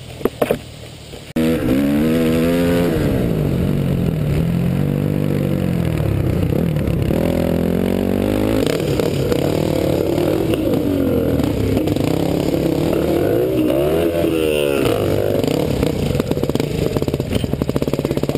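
Dirt bike engine running hard, its pitch rising and falling over and over as the rider throttles and shifts. It cuts in abruptly a little over a second in, after some brief clattering knocks. Near the end it settles into a low, even, fast pulsing.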